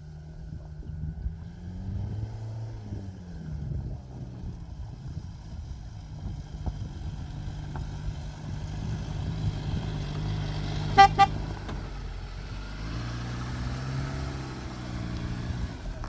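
A motor vehicle's engine running, its pitch bending up and down twice, with two short horn toots about two-thirds of the way through.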